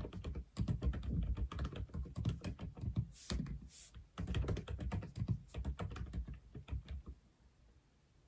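Typing on an Aula F87 mechanical keyboard: quick runs of key clicks in two bursts with a short break between them, then the typing stops about a second before the end.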